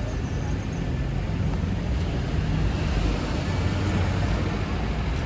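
Street traffic: a steady low engine rumble from passing road vehicles.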